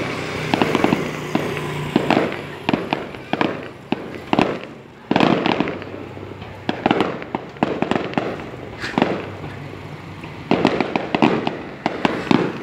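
Aerial fireworks shells bursting after going up: an irregular run of sharp bangs and crackles, some coming in quick clusters.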